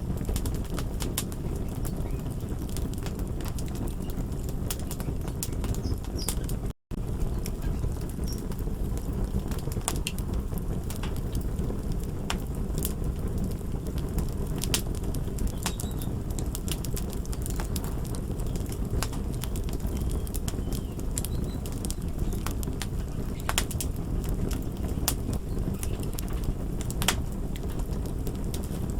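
Crackling fire: a steady low rumble with scattered sharp pops and crackles throughout. The sound cuts out completely for a split second about seven seconds in.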